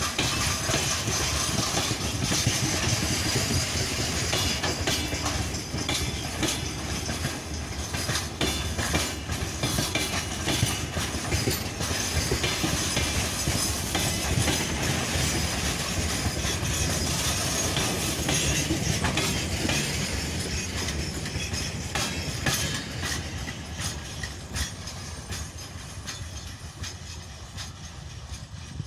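Freight train wagons rolling past, steel wheels clicking over the rail joints in a steady clickety-clack. It fades away over the last few seconds.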